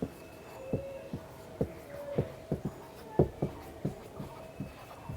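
Writing on a classroom board: a string of short, irregular taps, about two a second, as the letters are put down.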